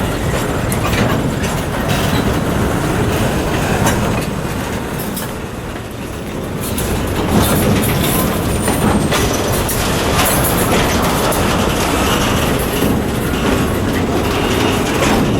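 Freight train cars rolling over badly maintained jointed track, with steady rumbling and a constant clatter of wheels clanking over rail joints.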